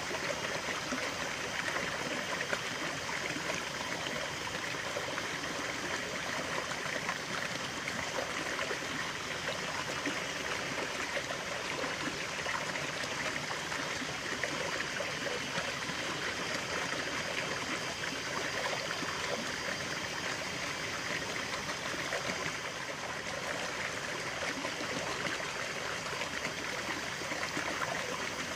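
Stream of running water babbling and trickling steadily over stones.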